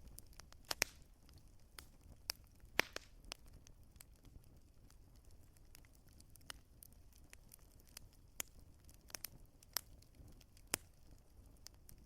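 Wood fire crackling: irregular sharp pops and snaps over a low, steady rumble of the flames, with the two loudest pops about one and three seconds in.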